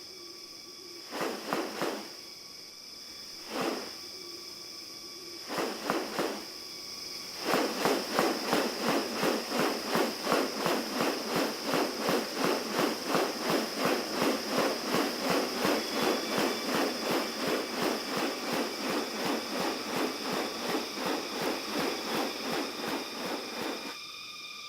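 Rainforest ambience with a steady high insect drone. Over it come a few short rustling bursts, then from about seven seconds in a rapid, even pulsing sound of about three beats a second that runs until near the end.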